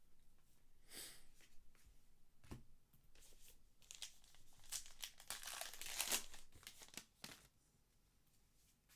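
Trading-card pack wrapper being torn open and crinkled: faint scattered crackles that build to a dense rustle a little past the middle, then die away about two-thirds through.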